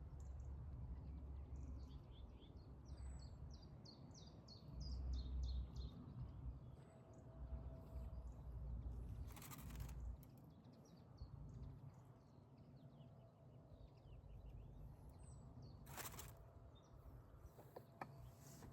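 Small birds chirping in quick runs of short high notes over a faint low rumble, with two brief knocks, one around halfway through and one near the end.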